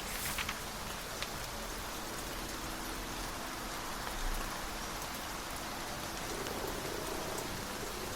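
Steady rain, with a few single drops ticking in the first second. From about a quarter of the way in, a cat's purr comes in faintly underneath and grows stronger toward the end.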